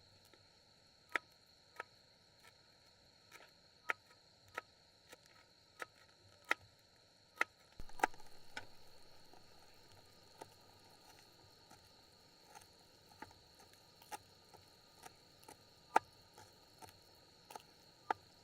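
Steady high-pitched chirring of crickets or other insects, with a series of sharp, irregular clicks or taps over it and one louder knock about halfway through.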